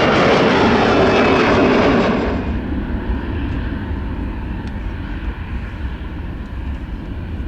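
Airliner engines passing close, a loud rushing noise that drops off sharply about two seconds in and settles into a lower rumble.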